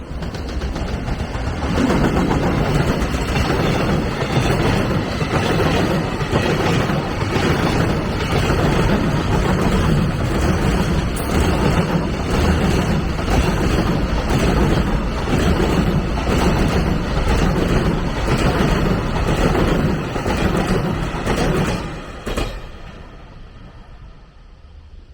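A long train passing close by, its wheels clattering in a steady rhythm for about twenty seconds before the sound falls away.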